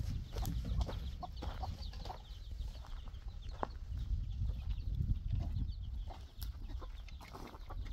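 Birds calling in many short, quick high chirps over a steady low rumble, with a few scattered clicks.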